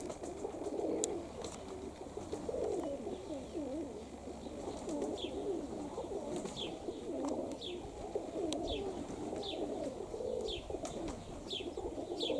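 Domestic pigeons cooing continuously at the loft. From about five seconds in, a small bird adds short, high, falling chirps, repeated every half second to a second.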